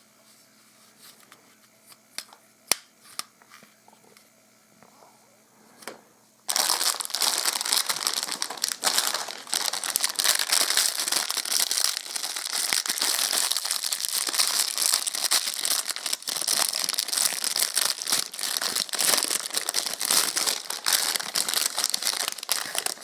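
A few light clicks, then from about six seconds in a Pez dispenser's plastic bag crinkles loudly and continuously as it is handled and torn open.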